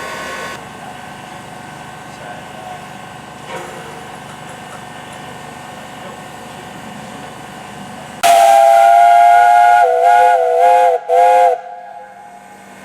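Steam whistle of the Peppercorn A1 Pacific 60163 Tornado, standing in steam: a steady hiss of steam, then about eight seconds in one long loud whistle blast that wavers in pitch, followed by a short second blast.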